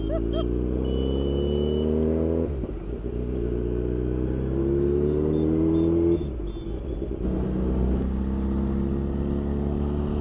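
Motorcycle engine accelerating through the gears, its pitch rising and dropping at a shift about two and a half seconds in and again about six seconds in, then cruising at a steady pitch.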